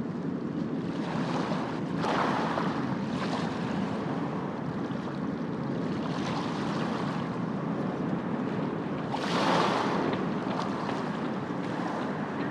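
Steady rushing ambient noise that swells louder about two seconds in and again around nine and a half seconds.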